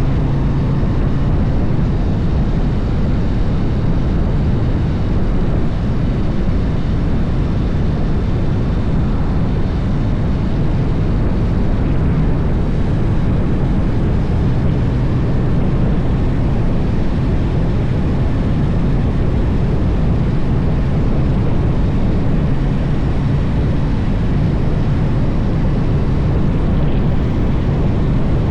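Harley-Davidson motorcycle riding at steady speed: a continuous engine drone under a loud rush of wind on the microphone, with no change in pace.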